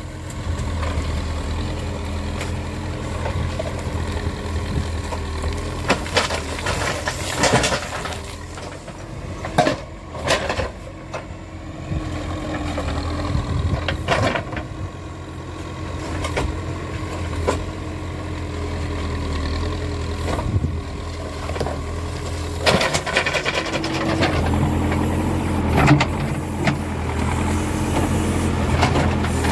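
Backhoe loader's diesel engine running under working load, its tone steady, then higher and louder from about two-thirds of the way through. Scattered sharp clanks and knocks of the working machine come through it.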